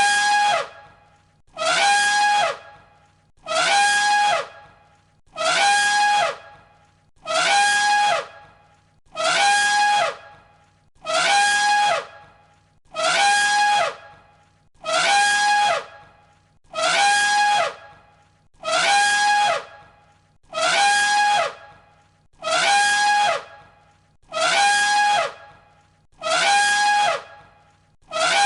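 Elephant trumpeting looped: about fifteen identical short trumpet calls, one roughly every two seconds, each ending with a drop in pitch.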